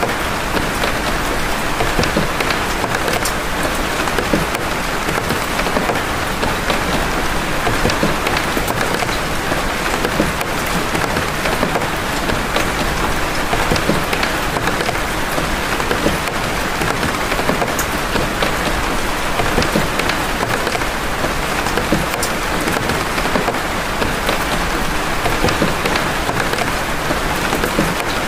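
Steady rain of big drops: a constant hiss with many separate drop hits scattered all through it.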